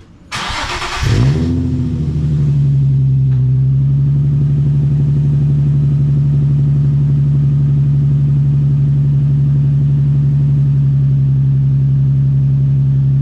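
Nissan 350Z's 3.5-litre V6 cold-starting through an ISR Performance dual-pipe (blast pipe) exhaust: the starter cranks for about a second, the engine catches with a brief rev flare, then settles into a steady, loud idle.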